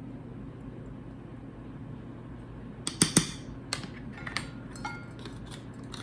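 Kitchen utensils knocking and clinking against a mixing bowl, a run of sharp knocks starting about halfway through, a few with a short ring, over a steady low hum.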